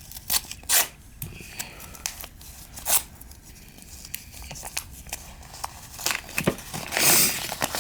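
Mail packaging being torn open and crinkled by hand, in short scattered rips and rustles, with a longer, louder tear about seven seconds in.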